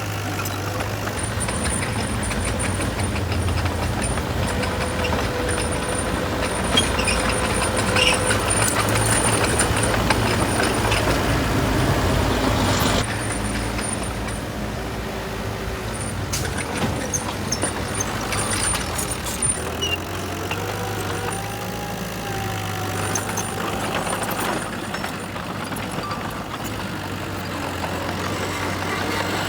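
Heavy diesel earthmoving machinery, dump truck and bulldozer engines, running steadily under load. The sound swells through the first half and drops abruptly about halfway through.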